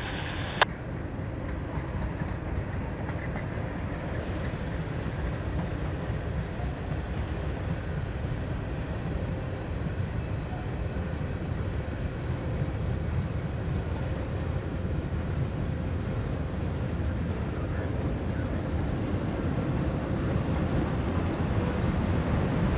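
Norfolk Southern freight cars rolling past: a steady rumble of steel wheels on rail, growing a little louder near the end.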